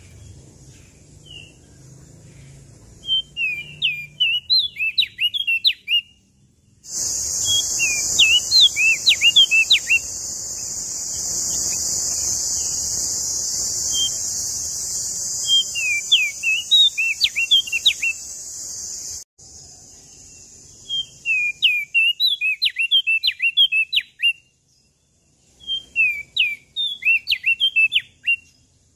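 A prenjak daun lombok (leaf warbler) sings repeated phrases of fast, high chirping notes, five bursts of two to three seconds each with short pauses between. From about a quarter of the way in until about two-thirds of the way through, a loud steady high hiss runs under the song, starting and stopping suddenly.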